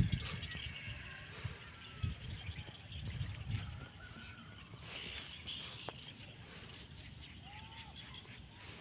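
Open-field ambience over rice paddies: a few short rising-and-falling bird chirps over an uneven low rumble that is heavier in the first few seconds.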